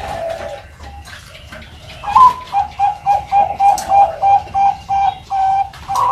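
Young zebra dove (perkutut) cooing: a rising opening note about two seconds in, then a quick run of short, even coos, starting again near the end.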